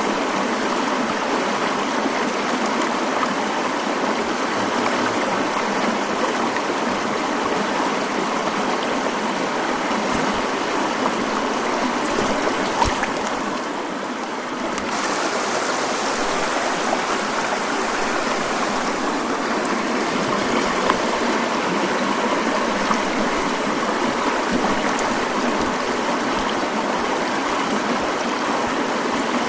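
Mountain stream flowing, a steady rushing and trickling of water, with a brief softening of the hiss about halfway through.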